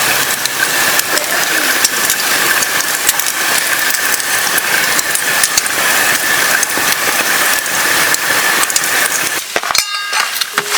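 Food sizzling and spitting in a hot pan over a campfire: a steady loud hiss dotted with many small pops. The hiss thins out for a moment near the end.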